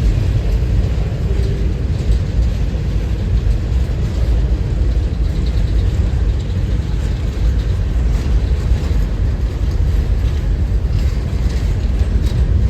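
Strong wind buffeting the microphone in a steady, loud low rumble.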